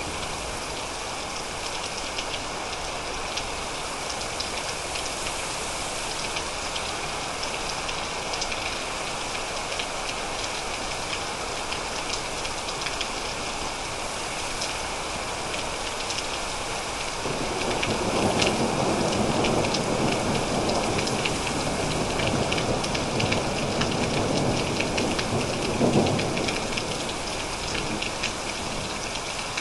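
Steady rain falling with a patter of drops. About halfway through, a roll of thunder rumbles in under it, rises to a sharper peak a few seconds before the end, then fades back under the rain.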